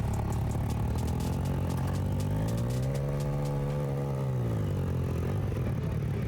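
Motorcycle engine running, its pitch rising to a peak about three seconds in and falling back, with a fast ticking clatter in the first half.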